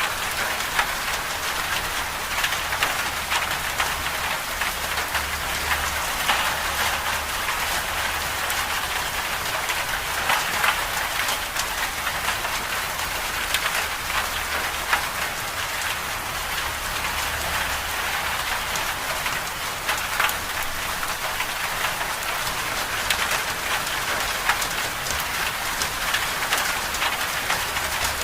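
Storm ambience of steady heavy rain: a dense, even hiss of countless small drop ticks over a low rumble.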